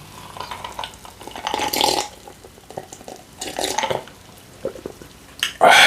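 A zero-sugar soda being drunk in gulps, with liquid and swallowing sounds, and a louder sound near the end.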